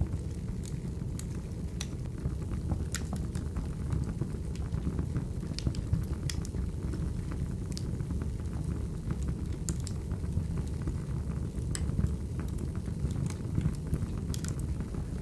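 Wood fire burning: a steady low noise of flames with irregular sharp pops and snaps, about one a second.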